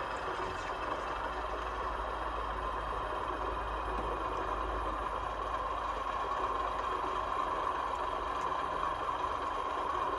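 Sound-fitted 00 gauge Hornby Class 31 model locomotive, its DCC decoder playing a steady diesel engine idle through the model's small speaker.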